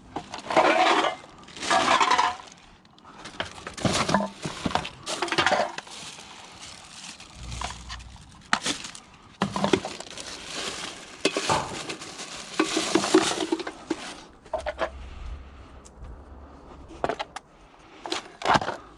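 Scrap metal and other junk clattering and clinking as it is rummaged through and handled, in irregular bursts with sharp knocks. The loudest bursts come about a second and two seconds in.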